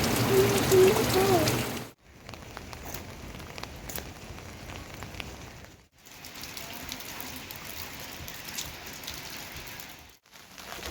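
Steady monsoon rain falling, an even hiss with scattered drops ticking on surfaces. It cuts out abruptly three times, for an instant each.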